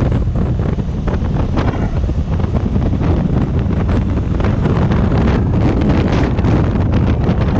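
Wind buffeting the microphone of a moving motorcycle, a loud, steady, rumbling rush that flutters throughout.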